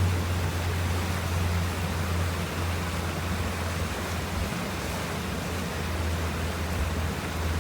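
Boat motor running steadily under way, a constant low hum under an even rush of water and wind.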